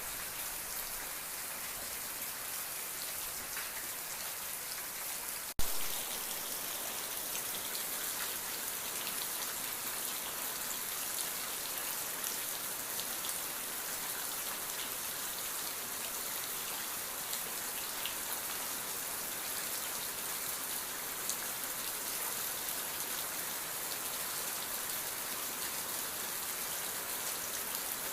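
Steady rain falling on a surface, an even hiss of drops. About five and a half seconds in there is a momentary gap with a sharp click.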